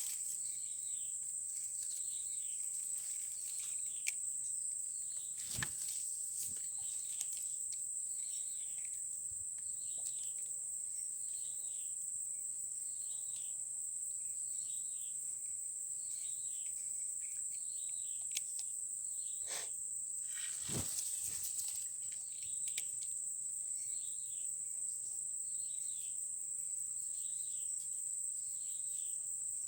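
Insects, crickets or similar, chirring in a steady high-pitched drone, with a short falling call repeating about once a second over it. A few sharp knocks stand out, one about five seconds in and two around twenty seconds.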